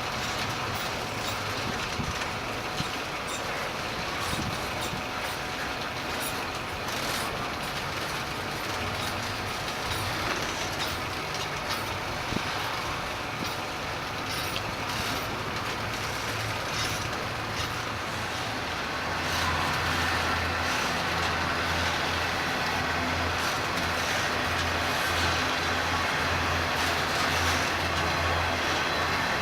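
Railroad train passing, a steady rumble of rolling cars. About two-thirds of the way through, a diesel locomotive's low engine drone comes in and grows louder.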